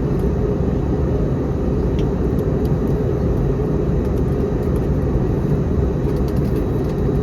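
Steady low rumble of engine and airflow noise inside the cabin of an Airbus A321neo airliner in flight, with a few faint ticks.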